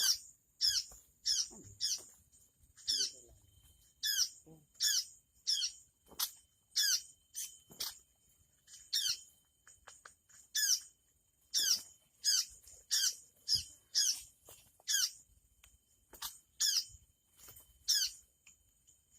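Ciung air (tit-babbler) calling: a rapid, evenly repeated series of sharp, downward-sweeping chirps, about one a second.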